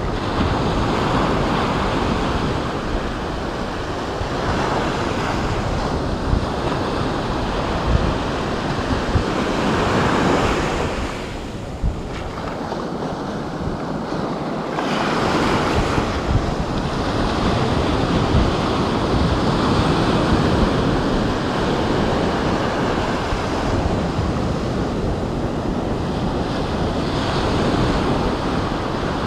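Ocean waves breaking and washing on a beach, a continuous surf that swells and eases every few seconds, with a lull a little before the middle. Wind buffets the microphone.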